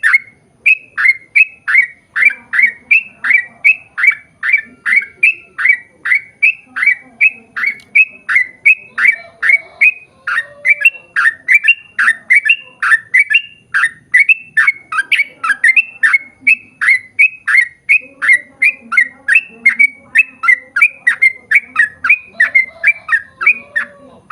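Yellow-vented bulbul (trucukan) calling in a long, unbroken rapid series of short, sharp notes, about two to three a second, each dropping in pitch.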